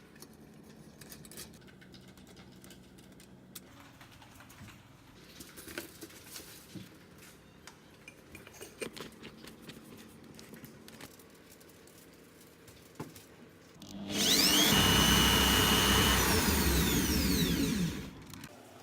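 Electric drill driving a homemade cotton candy spinner, running for about four seconds near the end: its whine rises as it spins up, holds, then falls away as it slows to a stop. Before it, only faint clicks and taps of handling.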